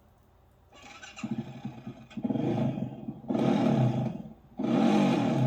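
ATV engine revved hard three times, each rev rising and falling in pitch, after a softer run-up about a second in.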